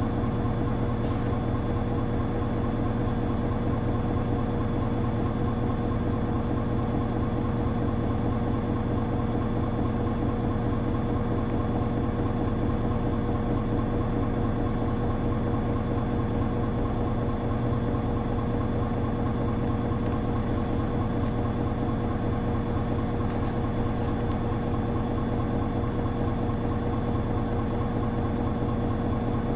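Hino Rainbow HR (KL-HR1JNEE) city bus diesel engine idling steadily, heard from inside the passenger cabin.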